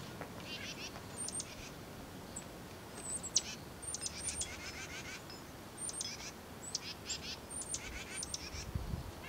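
Small songbirds calling repeatedly: short high chirps, each followed by a run of quicker lower notes, about once a second. A brief low rumble near the end.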